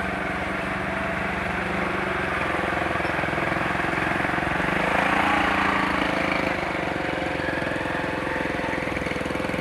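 A motorcycle engine running steadily with a fast, even pulsing, growing a little louder about five seconds in.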